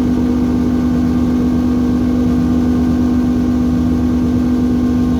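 Harsh electronic noise music played live: a loud, unchanging drone built on a steady low buzzing tone with a dense, grinding wash of noise over it.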